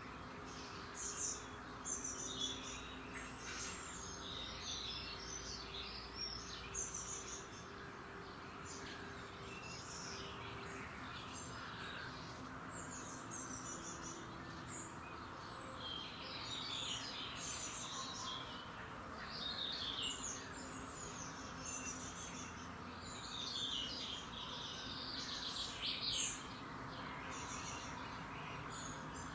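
Several songbirds chirping and trilling in a dawn chorus, with many short high calls overlapping one another over a faint steady background hum.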